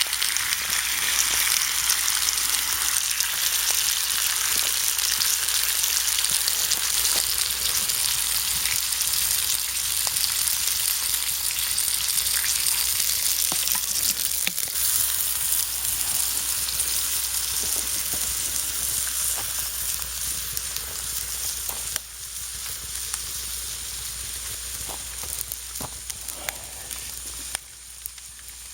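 Chicken sizzling and spitting in a hot pan, a steady frying hiss with small pops. The sizzle drops quieter about three-quarters of the way through and again near the end.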